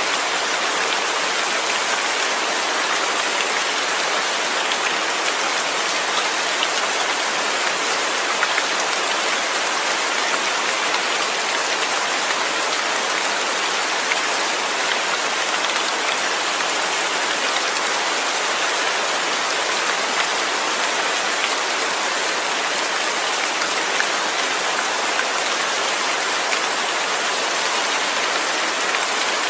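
Steady rain falling, an even hiss of many drops with no thunder or breaks.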